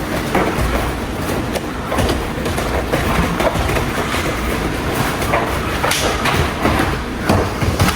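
Continuous rumbling noise with many irregular sharp knocks and thuds, a few louder ones near the end.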